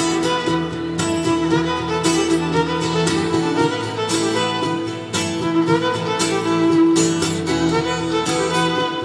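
Live band playing an instrumental passage with a steady beat and sustained melody notes, no singing.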